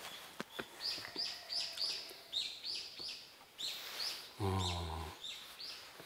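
A small bird calling in a quick series of short, high chirps, about three a second. Partway through, a brief low hum is heard for under a second.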